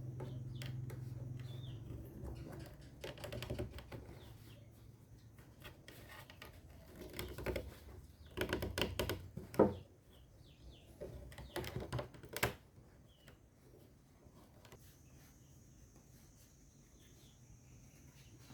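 Three bursts of rapid clicking and scraping, like small hand tools working on wood or bamboo, with one sharp loud click about halfway through. Birds chirp faintly in the background.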